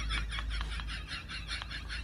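An animal's rapid, evenly repeated calls, about six a second, easing off after the first second.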